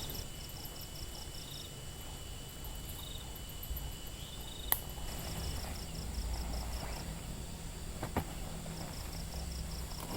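Forest insects: crickets chirping in rapid, evenly pulsed trains over a steady high buzz. A sharp click, the loudest sound, comes a little before halfway, and a softer knock about eight seconds in.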